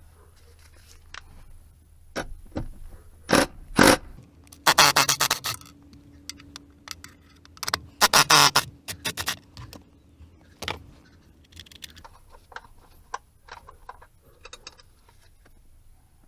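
3/8-inch-drive ratchet with a 13 mm socket clicking in quick runs as it loosens the nuts on a battery hold-down bracket, with sharp metal clinks and scrapes of the socket and tools between the runs.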